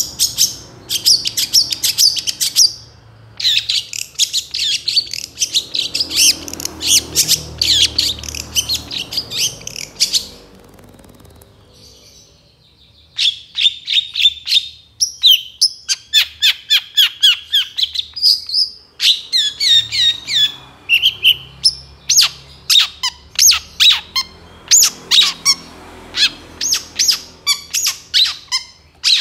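Long-tailed shrike (cendet) singing a fast, varied song of high chattering notes, breaking off about ten seconds in and resuming a few seconds later with sharp, separate notes and short phrases.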